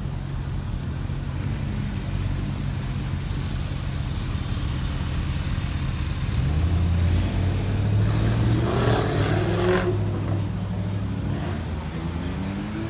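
Car engine running with a steady low rumble. It gets louder about halfway through, is loudest for a couple of seconds, then rises in pitch near the end as it pulls away.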